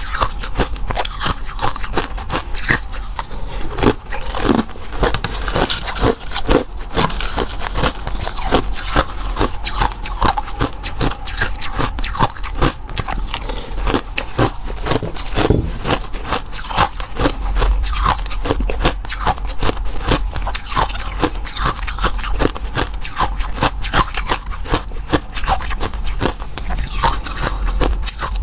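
Close-miked eating sounds: a person biting and chewing, with a dense, continuous run of crunchy crackling clicks. The sound cuts off suddenly at the very end.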